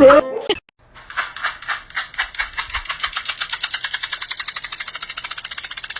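A run of sharp, evenly spaced clicks that starts about a second in and speeds up steadily from about four to about ten clicks a second. A voice laughs and speaks briefly at the start.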